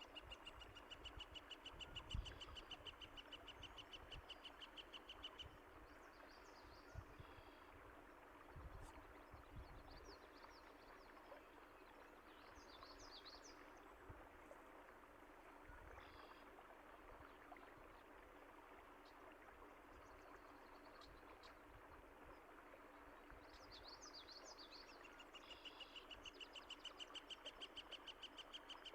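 Songbirds calling over a steady rush of running water. A rapid, even trill runs through the first five seconds and returns near the end, with short higher chirps scattered in between. A few low thumps stand out, the loudest about two seconds in.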